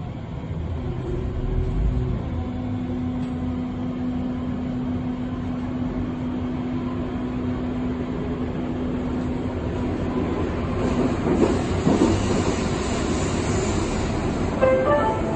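Berlin U-Bahn train running on the line, a steady rumble of wheels on track with a steady motor hum for several seconds. The noise grows louder about 11 to 12 seconds in, and a short run of rising tones sounds near the end.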